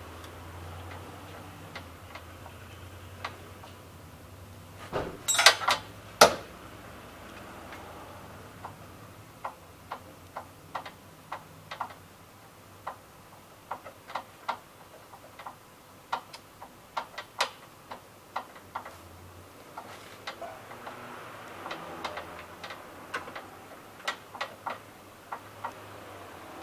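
Hand tools and car parts being worked on during a repair: irregular sharp clicks and metal taps, one or two a second, with a louder clatter about five to six seconds in.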